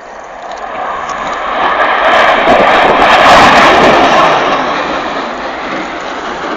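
Panavia Tornado GR4 jet passing, its twin RB199 turbofans swelling to a loud peak a little past halfway and then fading away.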